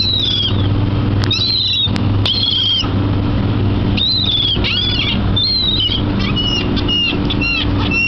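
Seagulls calling over and over, a flock of short, high cries that fall in pitch, several overlapping in quick succession in the second half, over a steady low mechanical hum.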